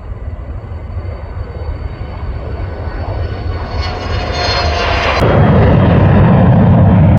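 Learjet 60 business jet taking off, its twin Pratt & Whitney PW305A turbofans giving a high whine over a rising roar. The roar builds steadily and turns deeper and loudest about five seconds in.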